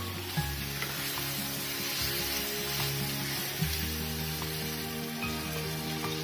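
Curry sizzling as it fries in a pan and is stirred, with a few light clicks. Background music plays along.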